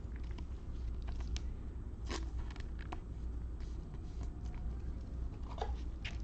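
Football trading cards handled by hand as a pack is flipped through, giving short scrapes and clicks of card on card, the clearest about two seconds in and near the end. A steady low hum runs underneath.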